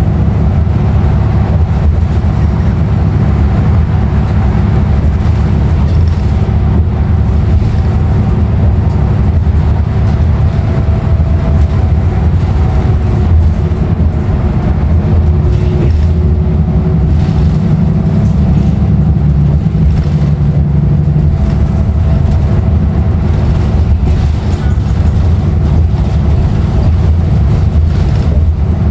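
Interior sound of a 2016 Nova Bus LFS under way: the Cummins ISL9 diesel and ZF automatic drivetrain running with steady road noise, and a faint whine that drifts a little in pitch.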